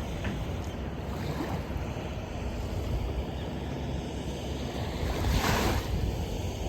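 Gulf surf washing onto the beach, with wind buffeting the microphone, and a short louder rush of breaking water about five seconds in.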